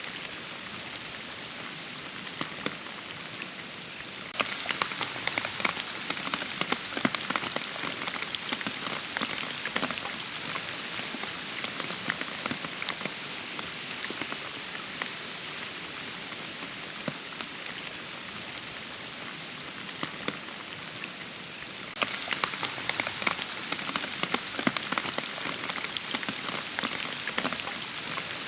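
Steady forest rain, with many separate drops striking close by. The drops get louder and come thicker about four seconds in, ease off gradually, then get heavier again about twenty-two seconds in.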